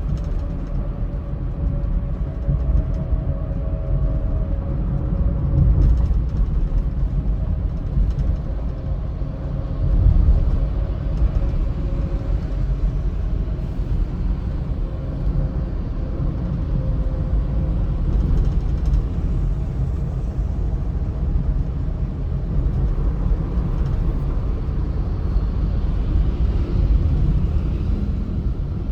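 Steady low road rumble of a car driving on a highway, with a faint hum over it and a brief louder swell about a third of the way through.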